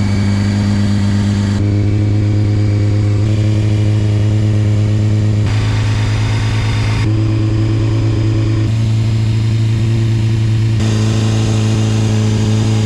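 Honda CBR600F4i's inline-four engine idling steadily just after a cold start, holding one even pitch.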